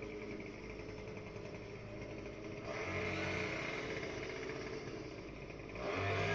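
Small lawn-equipment engine running steadily. It grows louder about three seconds in, eases back, then grows louder again near the end.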